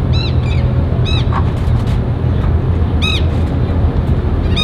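Birds giving short, repeated calls that rise and fall in pitch, in ones and pairs, over a steady low rumble.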